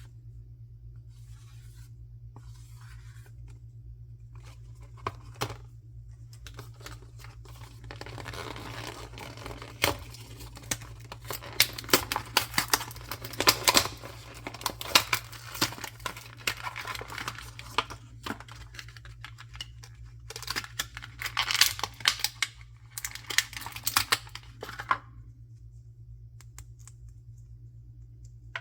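Packaging being torn open and crinkled by hand, in two spells of crackling rustle with sharp clicks, the first longer than the second. A steady low hum runs underneath.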